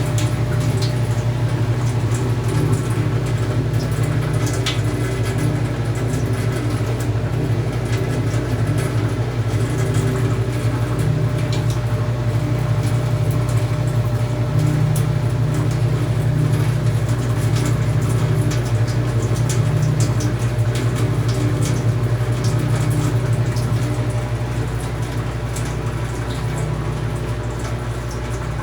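Panasonic Titânio 12 kg washing machine running mid-cycle, with water moving in the tub over a steady low hum and scattered small ticks.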